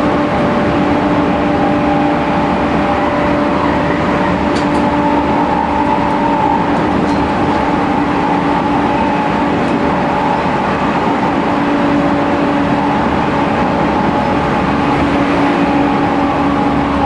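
Tokyu 5000 series electric train running at speed, heard inside a motor car: its IGBT inverter and traction motors give a steady whine of several tones over the wheel-and-rail rumble, dipping slightly in pitch near the end.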